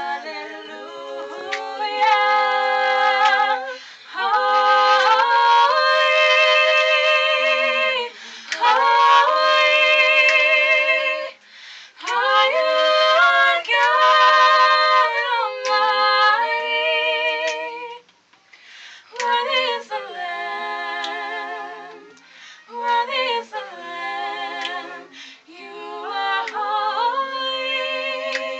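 Small vocal quartet singing unaccompanied in close harmony, holding long chords in phrases of a few seconds with short breaks for breath between them.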